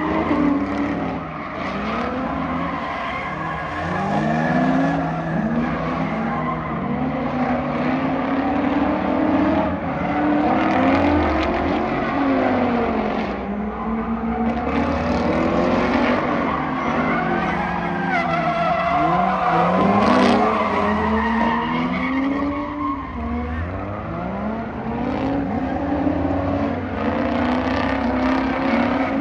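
Drift cars sliding at high revs: engines revving up and falling back again and again, several at once at times, over the hiss and squeal of spinning tyres.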